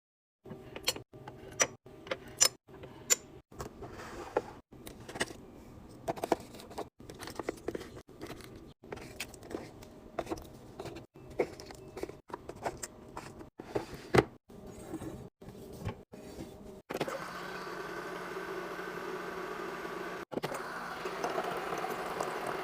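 Containers and packaging being handled and set down: a string of short clinks and knocks broken by abrupt cuts. A steady hum takes over about seventeen seconds in.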